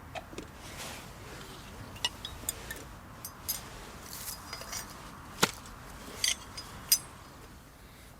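Camp cooking gear being handled: a scatter of light clinks and taps, the two sharpest about five and a half and seven seconds in.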